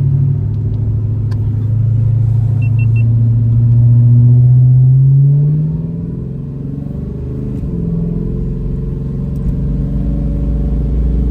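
Supercharged 6.0-litre V8 in a Monte Carlo Aerocoupe accelerating, its pitch climbing for about five seconds. The pitch drops as the automatic transmission upshifts about six seconds in, then climbs again.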